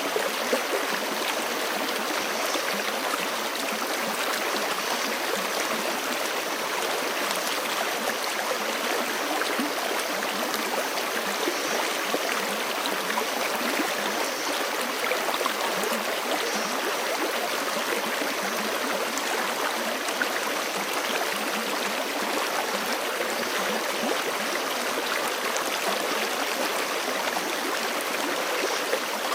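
Forest creek rushing and splashing over rocks, a steady even flow with fine gurgles throughout.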